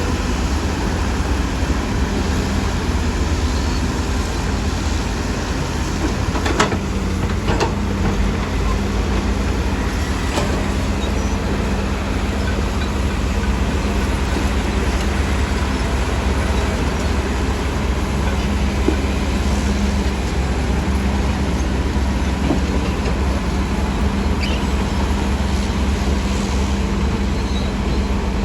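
Diesel engine of heavy earthmoving machinery running steadily under load, with a deep rumble and a steady hum, and a couple of sharp metal clanks about six and seven seconds in.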